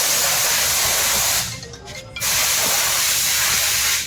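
Two long bursts of hissing air from a compressed-air blow gun, each about a second and a half, with a short break between them.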